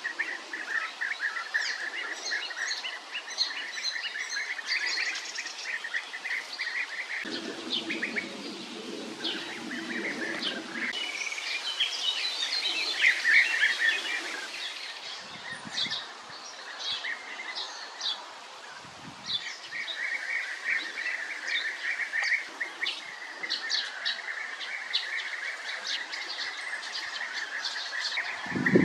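European bee-eaters calling: many short, rolling calls repeated in a dense chorus, with higher chirps among them. A low drone joins for about four seconds roughly a quarter of the way in.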